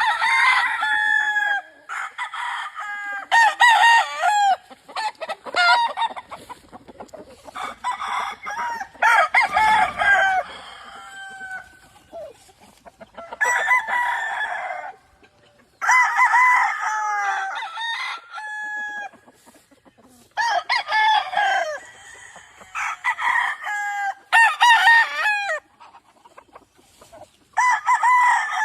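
Several game fowl roosters crowing one after another, about ten crows, some overlapping, with a little clucking between them.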